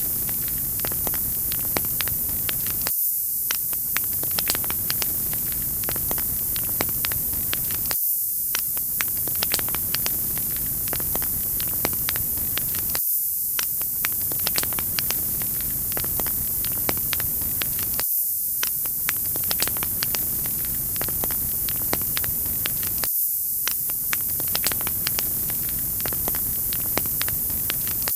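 Wood fire crackling in a fireplace: a steady hiss with many small sharp pops and crackles. The same short stretch of crackling repeats about every five seconds.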